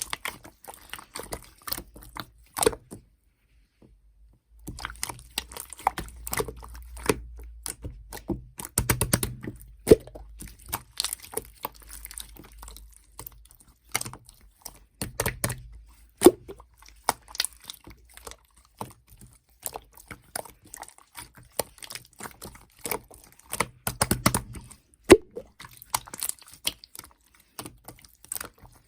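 Slime being squished and pressed by hand, giving irregular wet clicks, pops and crackles of trapped air, with a short pause about three seconds in.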